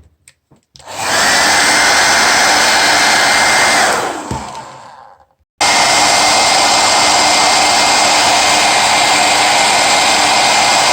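Hair dryer switched on about a second in and blowing steadily with a thin motor whine. It is switched off and spins down around four seconds in, then is running again from about five and a half seconds.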